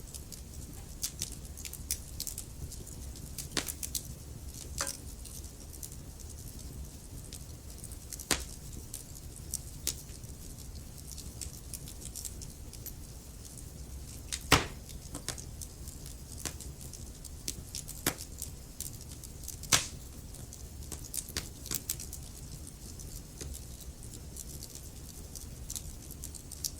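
Wood fire burning in a fireplace: logs crackling with irregular sharp pops over a steady low rumble of flame, the two loudest pops about halfway through and a few seconds later.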